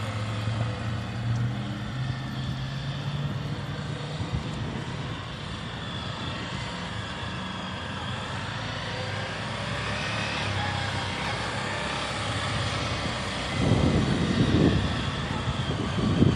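Motorcycle engine running steadily, its tone fading after about four seconds. Loud, irregular low rumbling comes in near the end.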